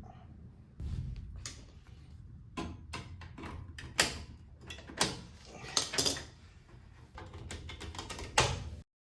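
Knocks and clanks of metal brake parts and tools being handled while new rear drum brake shoes are fitted. The sharpest knocks come about four, five, six and eight and a half seconds in, and the sound cuts off abruptly just before the end.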